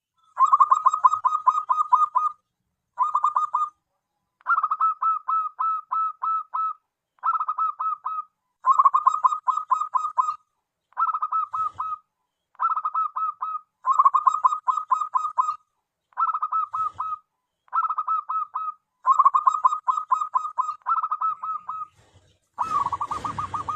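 Zebra dove (perkutut) cooing in a long run of short phrases, each a quick string of rolling notes with brief pauses between phrases. Near the end a hissing background noise comes in under a faster, even string of notes.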